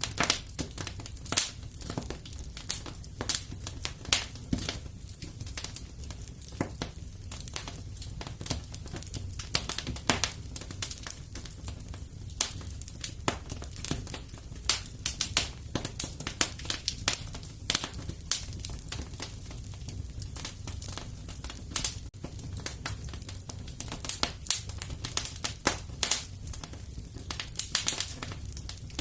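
Wood fire crackling in a fireplace: dense, irregular pops and snaps over a low, steady rumble of flames.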